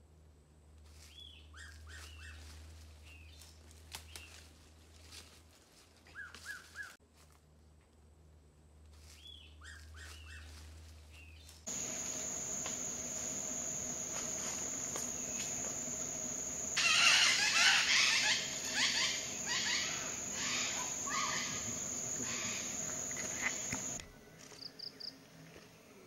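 Hooded pitta calling over and over, short falling whistles in twos and threes every few seconds. About halfway through, a steady high insect drone comes in, and near the end a jumble of loud scratchy sounds rises over it.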